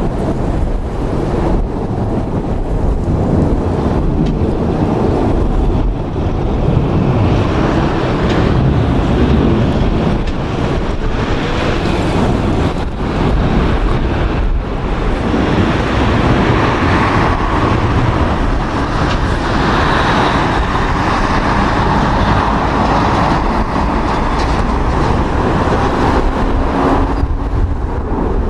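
Airbus A321 airliner's jet engines, a loud rushing rumble that builds from about a quarter of the way in, is strongest in the second half, and eases near the end.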